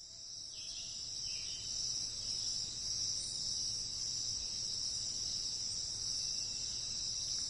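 Insects trilling steadily in a high-pitched chorus, fading in over the first couple of seconds.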